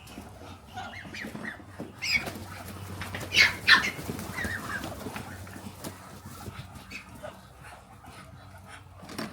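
Farm animals calling in short, scattered calls, with a loud pair of calls about three and a half seconds in.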